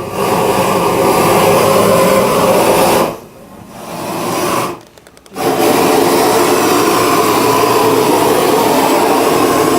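Steady, loud rushing roar of fire as soot is burnt out of an old chimney. It drops away twice briefly a few seconds in, then resumes.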